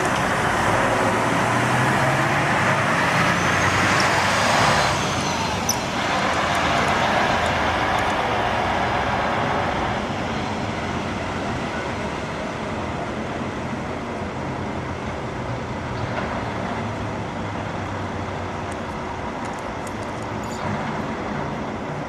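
Bus engine and road noise in traffic, louder for the first ten seconds and then steadier and a little quieter, with a brief high squeal about four seconds in.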